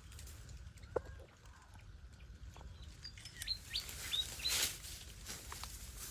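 A small bird chirping: several short, high chirps in quick succession in the middle, after a single sharp click, with a brief rustle among the chirps.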